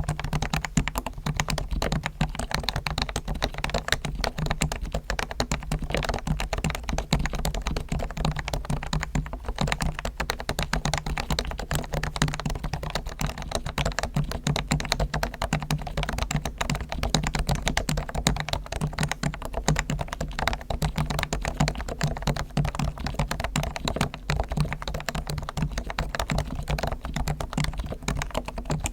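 Realforce R1 Topre keyboard typed on in a fast, continuous stream of keystrokes. Its spring sliders and stabilizers are fully lubed and its case is foam-dampened.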